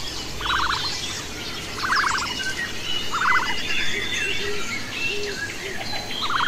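Small birds chirping, with a short buzzy trilled call repeated four times, about every second and a half.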